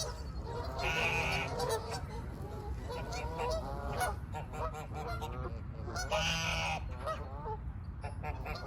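Domestic geese honking repeatedly, a flock calling over one another, with two loud, harsh honks about a second in and about six seconds in. A steady low rumble runs underneath.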